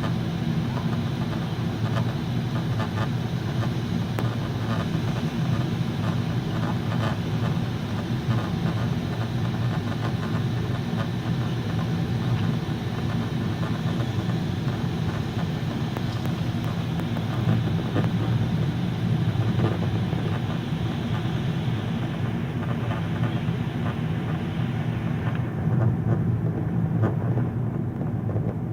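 Steady cabin rumble of a Boeing 777 airliner in flight: engine and airflow noise, low and even, with a hiss above it that fades near the end.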